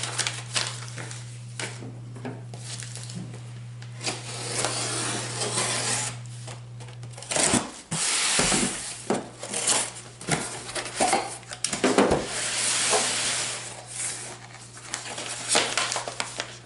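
A cardboard shipping box being opened and unpacked by hand: cardboard flaps scraping and packing material rustling in several long stretches, with scattered clicks and knocks, over a steady low hum.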